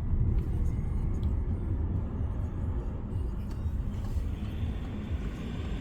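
Car driving, heard from inside the cabin: a steady low rumble of engine and road noise, with a higher hiss coming up about four seconds in.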